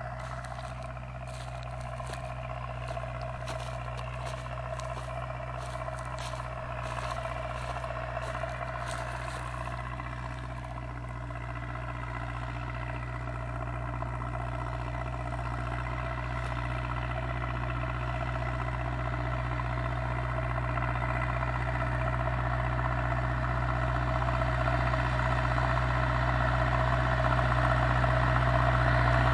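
Zetor 7245 tractor's four-cylinder diesel engine running steadily, working under plough, growing gradually louder. Light clicks and rattles are heard over it in the first third.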